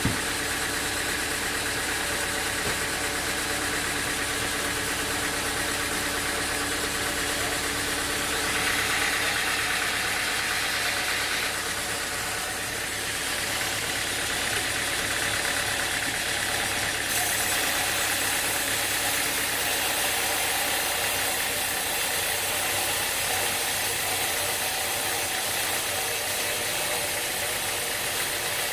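Sawmill machinery running steadily with an engine note underneath. About nine seconds in, a brighter, higher sound rises for a few seconds, and from about seventeen seconds the hiss in the highest range grows louder.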